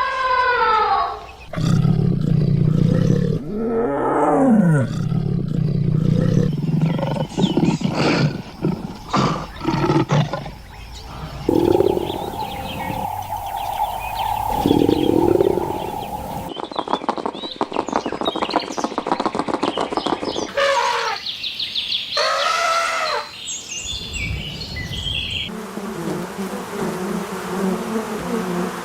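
A string of short animal calls and noises, each cut off abruptly for the next every few seconds: gliding pitched calls, rough noisy stretches and a fast buzzing trill.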